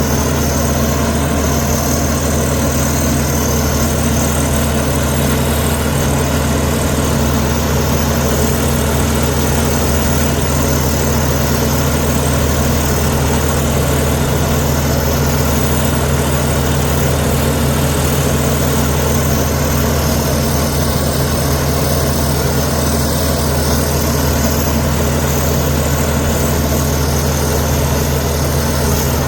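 Bulldozer's heavy diesel engine running at a steady, even speed with a deep hum, no revving or changes in pitch.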